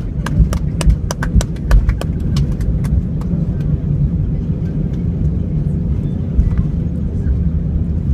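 Steady low rumble of an Airbus A319 heard from inside the cabin as it rolls on the ground after landing. A quick irregular series of sharp clicks runs through the first three seconds, then stops.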